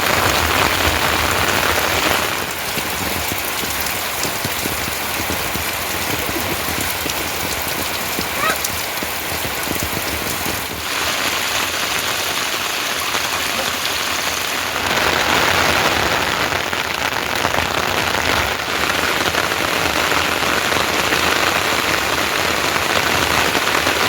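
Steady rain falling, with heavier and lighter stretches that change abruptly a few times.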